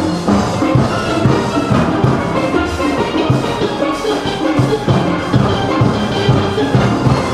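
Steelband music: steel pans playing with a rhythm section of drums keeping a steady beat.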